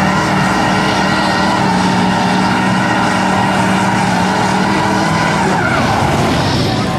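Mud-bogging truck's engine held at high revs on one steady pitch, letting off about five and a half seconds in.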